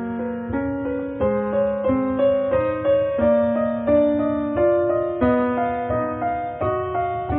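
Background music: a slow, gentle piano tune, its notes struck one after another about once or twice a second and left to fade.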